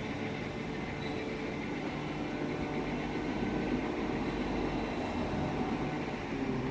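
Distant Cessna 208B Grand Caravan single-engine turboprop droning steadily overhead, a hum of a few steady tones that drift slightly in pitch.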